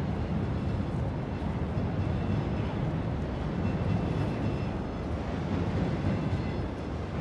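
Steady low rumble of a moving vehicle, with faint high whining tones above it.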